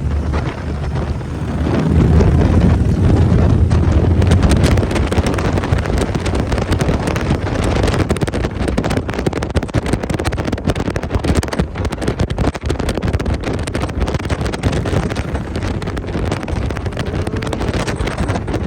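Wind buffeting the microphone of a moving motorcycle, over a low engine rumble that swells for a few seconds near the start.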